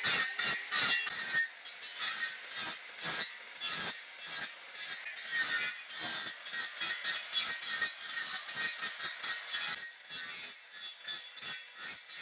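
Hand saw cutting through guadua bamboo in steady back-and-forth strokes, about three a second at first, then slower and quieter at about two a second.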